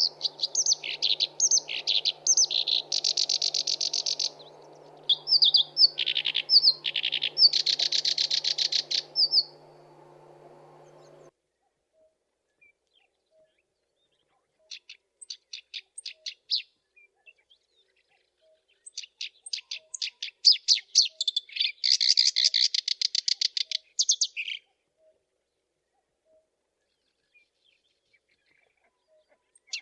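Black-browed reed warbler singing: bursts of rapid, harsh, chattering phrases, with pauses between the song bouts. A faint low hum in the first third cuts off abruptly.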